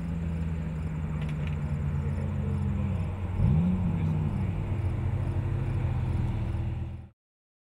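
2013 SRT Viper's V10 engine running at a steady light cruise, its note sagging, then a quick rev up and back down about three and a half seconds in before it settles lower. The sound cuts off abruptly near the end.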